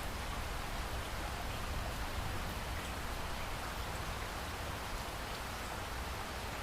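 Steady heavy rain pouring down, an even hiss with a low rumble and scattered drops ticking on surfaces.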